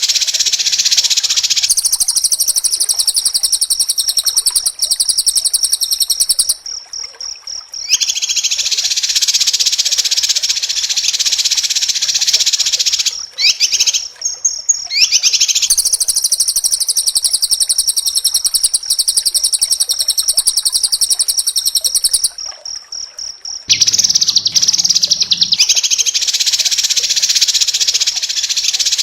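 White-rumped shama singing its fast, dense 'speed rapat' song: long, rapid, high trills of several seconds each, separated by short pauses, with a few quick rising whistles in one pause.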